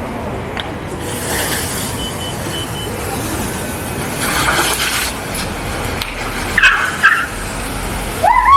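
Street traffic with cars passing, broken by a brief high tone about two seconds in, two short high squeals a little before seven seconds, and a rising squeal at the very end.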